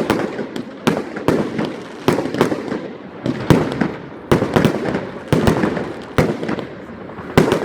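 Fireworks going off in a rapid, uneven series of sharp bangs, several a second, over a continuous crackle and rumble.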